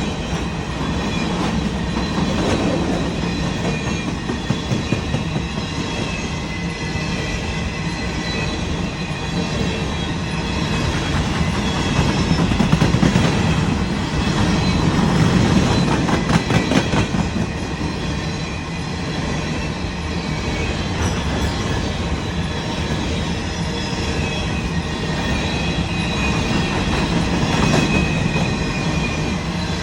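Empty BNSF coal train rolling past: a steady rumble of wheels on rail with a faint high wheel squeal. It grows louder midway, with a quick run of clickety-clack over the rail joints.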